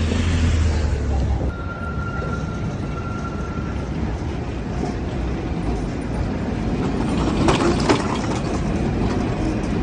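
City street traffic noise. A vehicle's low engine rumble passes at the start, a thin steady whine holds for about two seconds, and a few sharp clicks come near the end.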